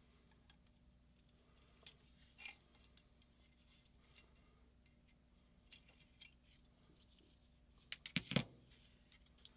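Faint, scattered clicks and clinks of small metal parts and tools being handled during a paintball marker teardown, with a quick cluster of louder clicks about eight seconds in.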